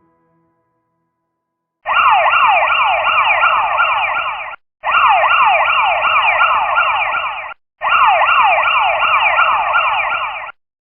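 Police siren sound effect: a rapid series of falling sweeps, about three a second, played in three bursts of a few seconds each. Each burst cuts off abruptly.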